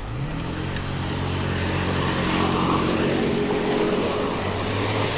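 A motor vehicle's engine hum coming up from behind, growing louder over the first couple of seconds and then holding steady, over road and wind noise.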